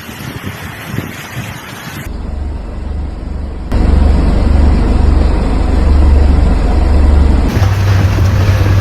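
Outdoor street sound in a snowstorm: a loud, deep rumble of wind buffeting the microphone over traffic noise. It changes abruptly at edit cuts about two seconds in, again a little later, and near the end.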